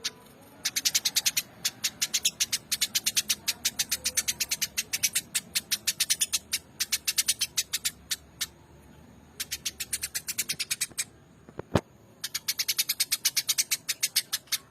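Eurasian tree sparrow chattering: rapid runs of sharp chirps, about ten a second, in bursts of one to three seconds with short pauses. A single sharp knock comes about three quarters of the way through.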